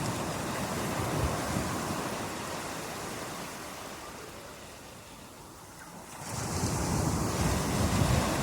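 Ocean surf: the wash of one wave fades away over several seconds, then the next wave surges in about six seconds in, with wind rumbling on the microphone.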